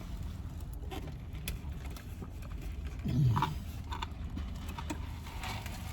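Low steady hum inside a car, with faint clicks and creaks of a drink container being handled while the lemonade is tasted, and a short falling "mm" about three seconds in.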